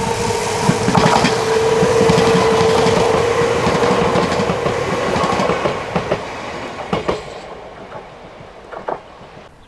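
Chichibu Railway 5000 series resistance-control electric train running past, with a steady whine and wheels clacking over rail joints. It is loudest about two seconds in, then fades away as the train recedes.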